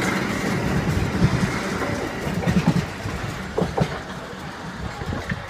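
Loaded car-carrier wagons at the tail of a freight train rolling past, wheels clicking on the track several times past the middle. The sound fades as the last wagon moves away.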